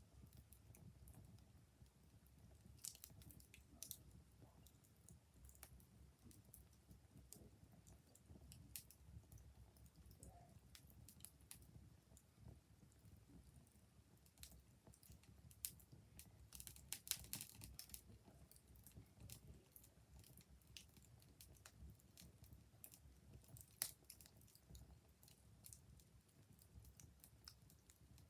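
Wood fire crackling faintly, with irregular sharp pops and snaps, a small cluster of louder ones about seventeen seconds in and a single sharp pop near twenty-four seconds, over a low rumble.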